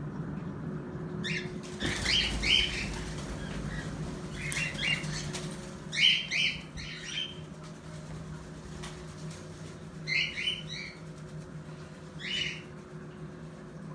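Pet birds giving clusters of short, high chirps every second or two, with a flutter of wings about two seconds in.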